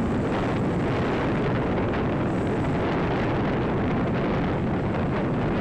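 Steady, loud road and engine rumble with wind rushing over the microphone, recorded from a vehicle moving at speed close behind a truck.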